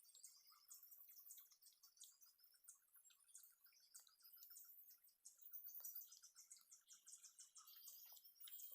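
Faint forest ambience: insects and birds chirping high-pitched throughout, with rapid trills.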